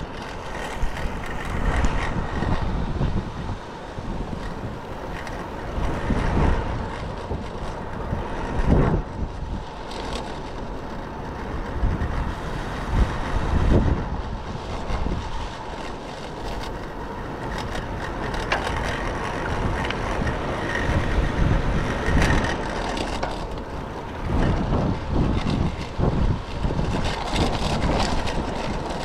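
Typhoon wind buffeting a microphone on a moving bicycle, a rushing noise that swells and drops in gusts, with heavy low rumble.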